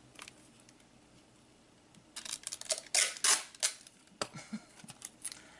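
Adhesive tape being pulled off the roll in a few quick rasping strips about two seconds in, then scattered clicks and crinkles as it is handled and pressed onto the sunshade.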